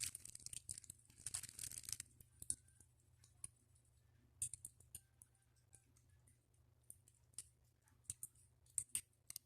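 Faint, irregular crackles and clicks in a quiet room, denser in the first two seconds and then scattered every half second or so.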